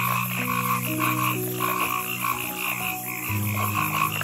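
A chorus of frogs croaking in a steady pulsed rhythm, a few calls a second, over soft background music with long held notes.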